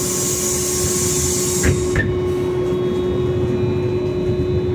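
The pneumatic doors of a MAZ-215 articulated bus closing: a hiss of compressed air that ends suddenly in a thud as the doors shut, then a click. Under it the bus runs with a steady hum and a low rumble.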